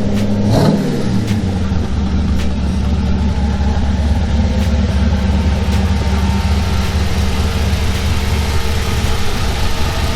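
Twin-turbocharged 1932 Ford coupe's engine, fed through a blow-through carburetor, running steadily under way on a test drive, with a short sweep in pitch about half a second in.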